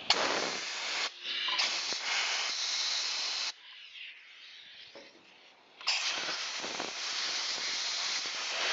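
Compressed air and aerosol carburetor cleaner hissing in three spray blasts over the outside of a fuel-soaked carburetor: about one second, then about two seconds, then a longer blast of about three seconds near the end.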